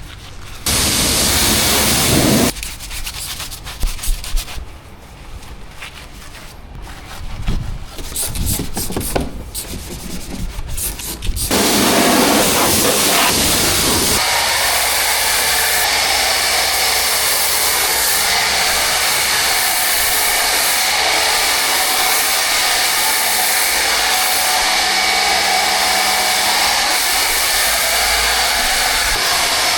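Car-wash power equipment giving a short loud rushing blast, then several seconds of irregular rubbing and scraping against the car, then running with a loud, steady rushing hiss from about eleven seconds in.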